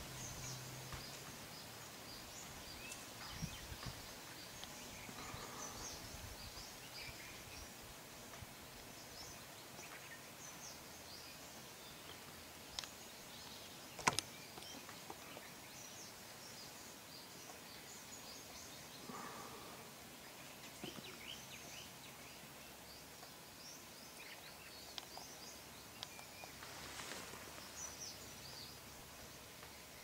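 Faint, high chirps and twitters from small birds scattered over a quiet outdoor background, with one sharp click about fourteen seconds in.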